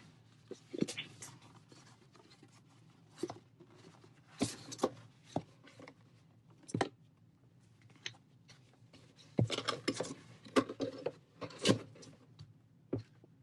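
A cardboard box being opened and its packaging handled: scattered rustles, scrapes and light taps, busiest in a flurry near the end.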